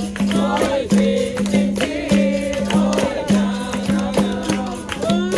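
Capoeira roda music: a group singing a call-and-response song over the berimbau's buzzing notes and the pandeiro's jingles and strokes, in a steady repeating rhythm.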